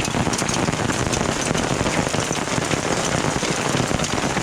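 Rain mixed with small hail pelting down in a steady, dense patter of many small hits.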